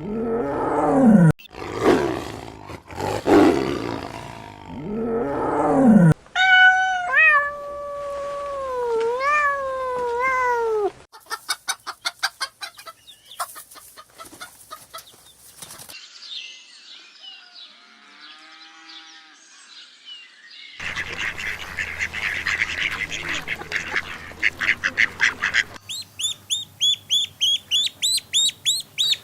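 Tiger roaring, a few long calls that fall in pitch, for about the first six seconds. After that comes a run of other animal calls: a wavering pitched call, rapid clicking, rapid pulsing calls, and fast chirps near the end.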